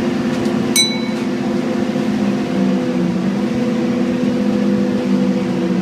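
Scania N230UD double-decker bus's Euro IV engine running steadily under way. A short ringing ding sounds about a second in, and the engine note drops slightly about halfway through.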